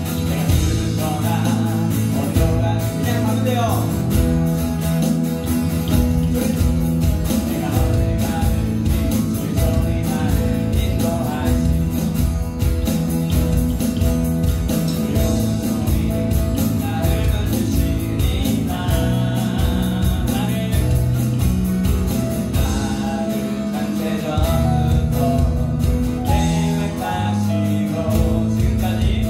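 Live worship band playing a song with acoustic guitar, keyboard, bass guitar and electronic drums keeping a steady beat, with a voice singing over it.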